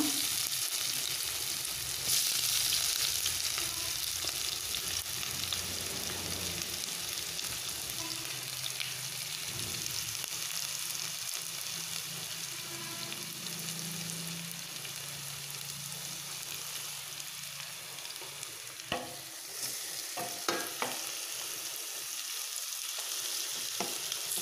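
Sliced shallots sizzling in hot coconut oil in a stainless steel pan. The sizzle surges about two seconds in, then slowly dies down. Near the end, a spatula scrapes and knocks against the pan a few times as the shallots are stirred.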